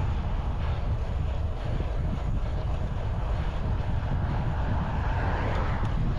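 Wind rushing over the microphone of a moving bicycle on a road, a steady low rumble with road noise. The noise swells near the end.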